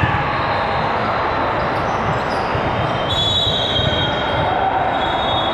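Basketball game sound in a gym: a basketball bouncing on the hardwood over a steady hum of crowd noise. Short high squeaks, typical of sneakers on the court, come in about three seconds in.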